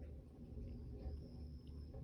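Garbage truck's engine running, a faint, steady low rumble, with a thin high whine over it from about half a second in until near the end.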